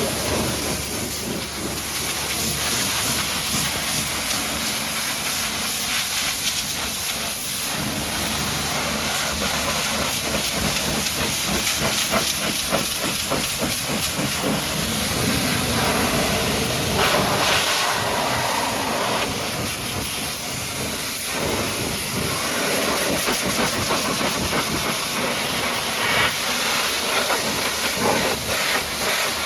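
High-pressure washer jet spraying water onto a truck: a steady hiss that swells and fades as the jet moves over the surfaces.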